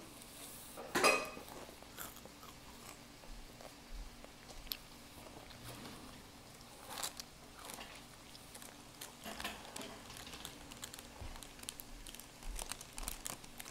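A child chewing a crunchy Rice Krispie treat: scattered crisp crunches and small clicks, with a louder crunch about a second in.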